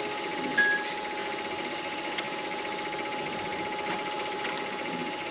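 Midi wood lathe running steadily with a constant motor whine. About half a second in, a short phone notification beep sounds over it.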